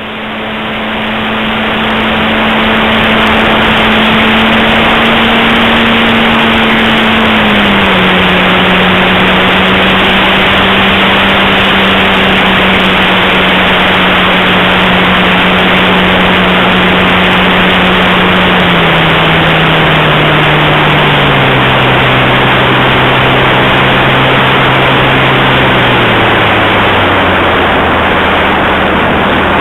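Mini Pulse XT RC airplane's motor and propeller in flight, heard from the camera mounted under the plane, under heavy wind rush. The propeller's steady hum steps down in pitch several times, about 8 seconds in and again in stages over the last ten seconds, as the motor slows.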